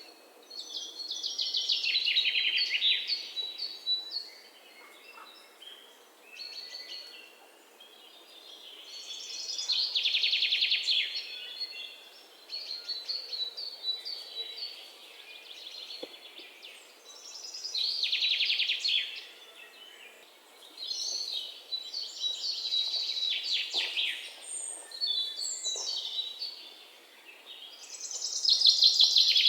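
A songbird singing in fast, trilling, high-pitched phrases of two to three seconds each, repeated every several seconds, with quieter chirps in between.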